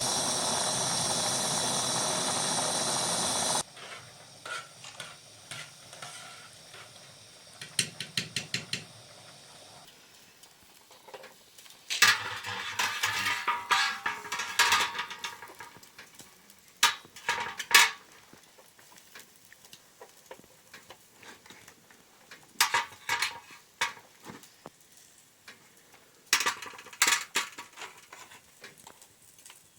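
A loud steady hiss for the first three and a half seconds, cut off abruptly. It is followed by scattered clinks, taps and clatter of cooking utensils and dishes being handled, in several short bursts.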